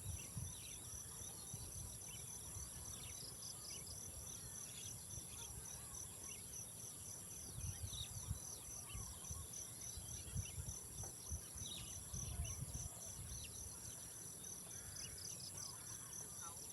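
Insect chorus: a steady high-pitched buzz over a pulsing trill at a few beats a second, with short chirps scattered through it. A low rumble swells now and then beneath.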